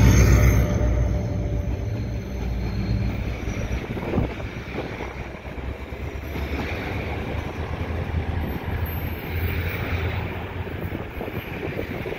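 EMD GT36 HCW diesel locomotive passing beneath, its engine loud at first and fading within the first two seconds, followed by the steady rumble of the train's cars rolling past on the rails, with a single knock about four seconds in.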